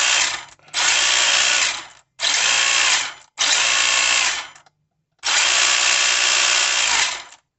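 Speed Passion 7.5 brushless motor in a Tamiya DT02 buggy, test-run on a freshly calibrated ESC. It whirs the gearbox and wheels up in short throttle bursts, about five in all, and winds down between each.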